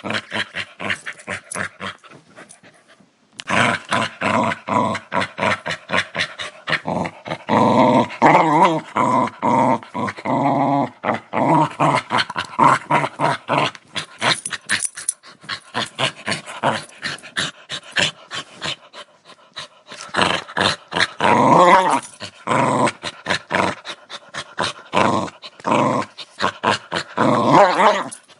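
Dog growling aggressively: long runs of rough, rapidly pulsing growls, with a short break about two to three seconds in.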